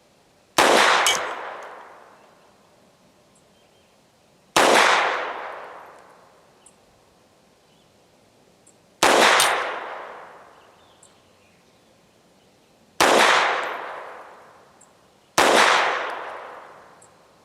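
Five single shots from a FEG AP-MBP .32 auto (7.65 mm) pistol, fired slowly a few seconds apart. Each shot is a sharp crack followed by an echo that dies away over about a second and a half.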